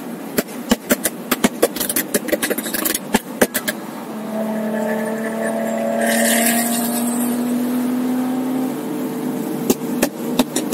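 Infiniti G37 sedan's V6 heard from inside the cabin at highway cruise: a steady engine drone over road noise, with a brief rush of air about six seconds in. A quick, irregular run of sharp clicks over the first few seconds, and two or three more near the end.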